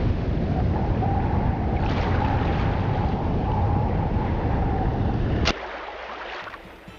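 Loud, steady rush of wind and sea waves with a heavy low rumble, cutting off suddenly with a click about five and a half seconds in.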